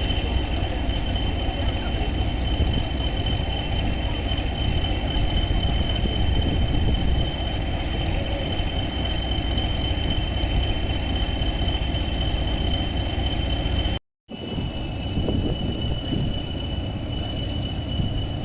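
Heritage railway train running along the track: a steady low rumble of wheels and carriage with a constant high-pitched whine over it. The sound cuts out for a moment about fourteen seconds in, then carries on the same.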